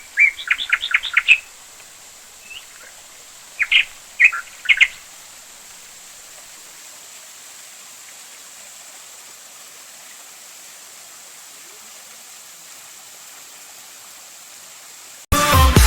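A bird calling: a quick run of short, high chirps in the first second and a half, then three more calls around four to five seconds in, over a steady background hiss. Electronic dance music cuts in abruptly near the end.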